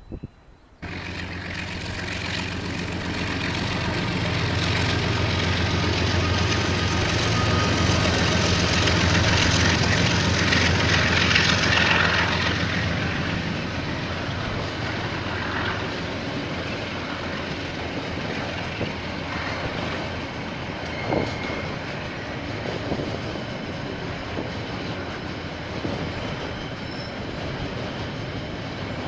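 A KiwiRail train passing: a diesel locomotive's engine drone builds up, is loudest around ten seconds in and fades, leaving the steady rumble of the train's cars rolling by on the rails, with a few sharp clicks.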